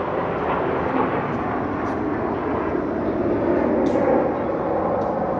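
Aermacchi MB-339A jet trainers flying past in formation: the steady jet engine noise of their turbojets, swelling slightly a little past halfway.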